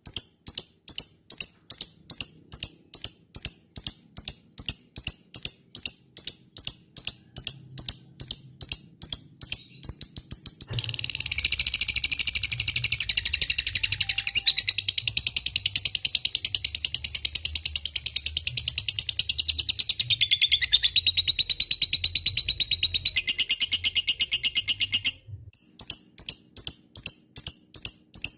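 Lovebird calling: a run of rapidly repeated short, high ticking chirps (ngetik), breaking about eleven seconds in into one long, continuous chattering trill (ngekek) that lasts about fourteen seconds and stops suddenly, after which the ticking chirps resume.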